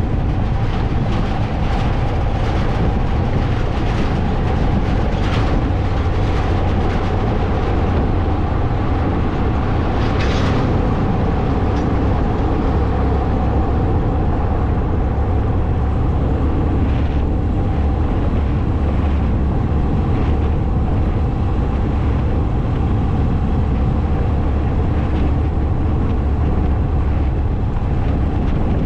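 Motorcycle riding at a steady speed, its engine running under a constant low rumble with no change in pace.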